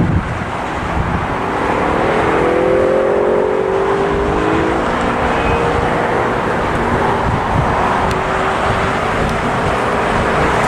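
Airbus A350's Rolls-Royce Trent XWB jet engines at takeoff power during the takeoff roll: a loud, steady rush that grows a little about a second in, with faint whining tones drifting through it.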